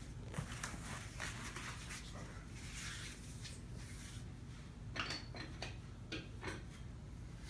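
A cardboard box of fireworks being opened and handled: scattered rustles, scrapes and light knocks of cardboard and packaging, a sharper cluster about five seconds in, over a low steady hum.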